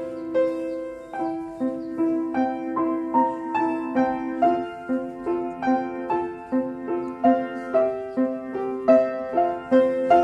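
Piano music in an even, moderate tempo, with chords and a melody struck at regular beats: ballet class accompaniment for pliés at the barre.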